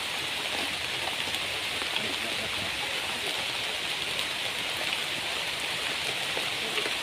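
Steady rain falling on the forest, an even hiss.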